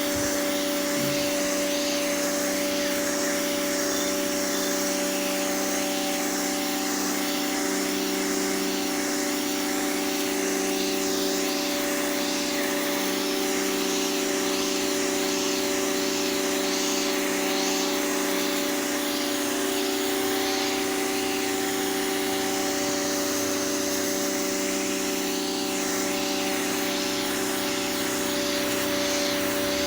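Pressure washer running steadily: its motor and pump hum under the hiss of the water jet spraying the pavement.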